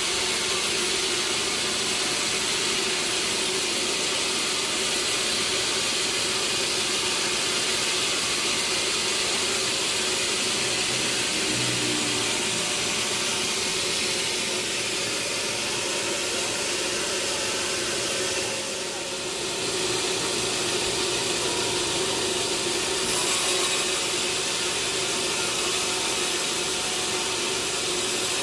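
Sawmill saw running steadily through teak wood, a constant noise that dips briefly about two-thirds of the way in.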